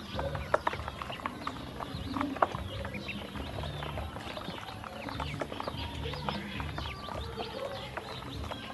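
A flock of baby ducklings peeping in a busy, continuous chorus of short high calls, with a few sharp clicks. Background music with a repeating bass line plays underneath.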